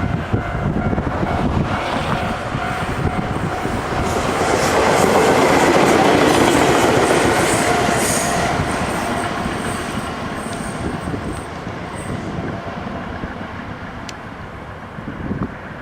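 Ichibata Electric Railway 2100 series electric train passing by. The rumble of wheels on rail swells to a peak about six seconds in, then fades as the train moves away, with thin high-pitched tones from the wheels as it goes past.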